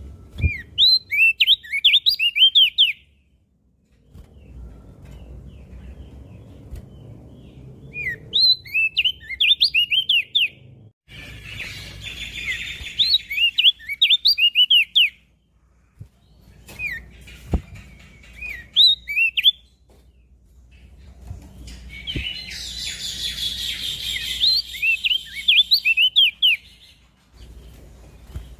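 Crested white-eye (opior jambul) singing: bursts of rapid, high, sweeping chirps lasting a few seconds each, repeated about every five to six seconds with short pauses between.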